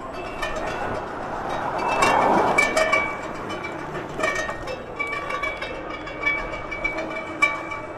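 A bike's odd noise: a thin, steady high squeal over a rattling background, with scattered clicks and a louder noisy rush about two seconds in.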